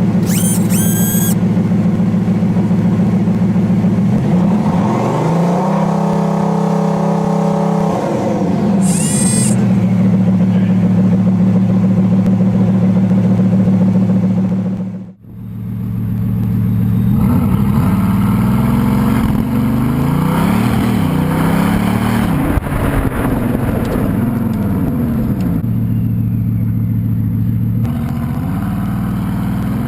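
Bugatti Veyron's quad-turbo W16 engine idling steadily, then revved up and back down once, with short high whistles near the start and again around nine seconds. After a cut about halfway, it is blipped repeatedly, the pitch climbing and falling over and over.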